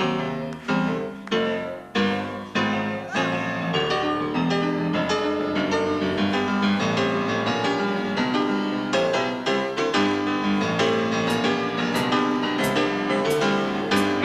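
Solo piano from a 1972 live rock band recording, heard off an FM-broadcast cassette tape. It opens with repeated struck chords and moves into quicker runs of notes.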